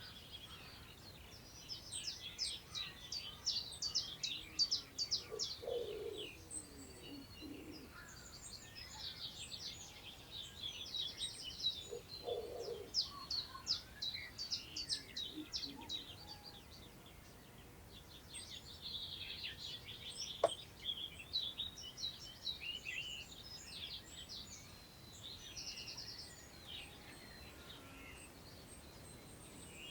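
Several songbirds singing at once in the countryside, with overlapping high trills and rapid song phrases coming in waves over a faint rustle of wind. Two short low calls sound about six and twelve seconds in, and a single sharp click about twenty seconds in.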